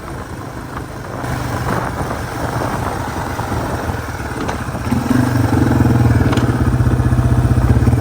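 Yamaha TW200's single-cylinder four-stroke engine running as the motorcycle is ridden, getting noticeably louder about five seconds in.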